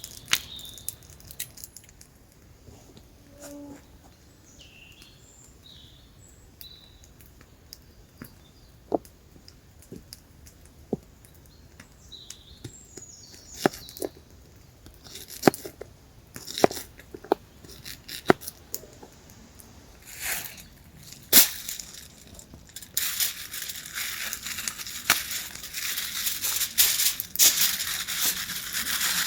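Scattered crunches, cracks and crinkling of things being handled, with a few faint bird chirps early on. About three quarters of the way through, a steady hiss sets in with crackles running through it.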